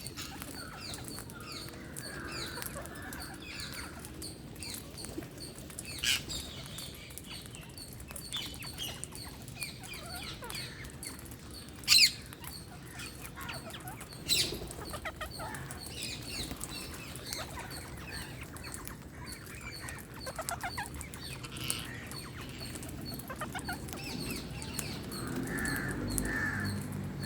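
Wild parakeets chirping repeatedly while feeding, many short high calls with a few sharp, loud screeches standing out, about six, twelve and fourteen seconds in.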